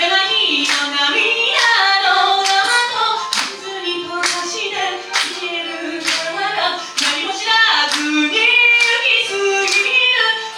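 Pop song with female singing over a backing track, the voices gliding through a melody, with a sharp hand clap on each beat, about one a second.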